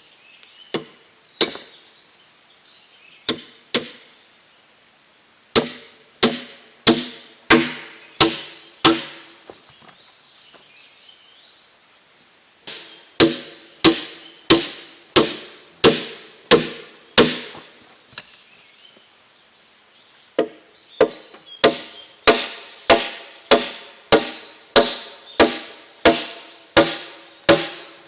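A tool striking wood over and over, in runs of several blows a little over half a second apart with short pauses between runs. Each blow is sharp and leaves a brief ringing tone.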